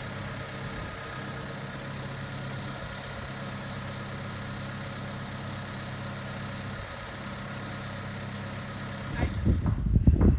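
Crane engine idling steadily. About nine seconds in it gives way to louder, gusty low rumbling.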